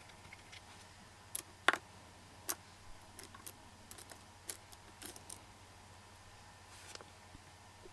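Scattered short clicks and light taps of makeup items being handled, such as a brush and an eyeshadow palette, about a dozen in a few seconds, the loudest about a second and a half in.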